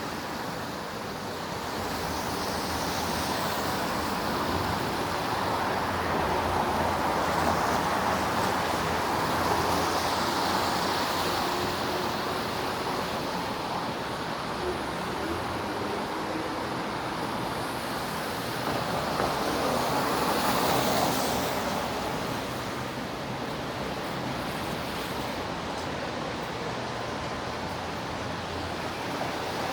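Street traffic on wet pavement: a steady hiss of tyres on the rain-soaked road, swelling as vehicles pass, most noticeably in the first third and again about two-thirds of the way through.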